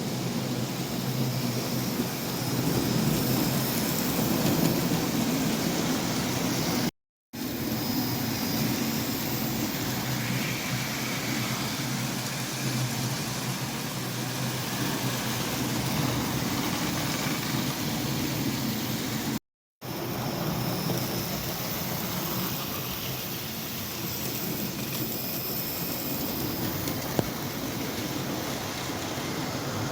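Hornby OO-gauge model locomotive running on its track: a steady electric motor hum with the wheels rolling over the rails. It cuts to silence briefly twice, about seven seconds in and again near twenty seconds.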